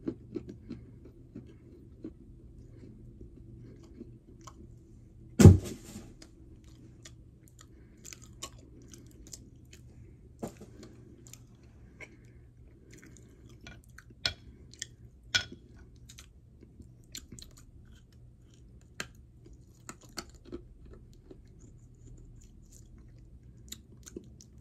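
A person chewing a gritty chunk of edible clay close to the microphone: scattered sharp crunches, the loudest about five seconds in, with softer grinding between them.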